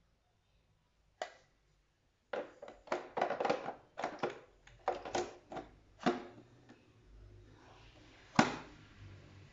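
A run of irregular knocks and clunks in a small room: one about a second in, a quick cluster over the next few seconds, and the loudest single knock near the end.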